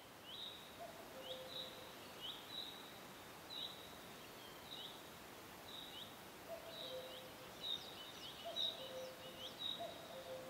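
Faint bird chirps over a light background hiss: short chirps recurring about once a second, coming closer together in the second half.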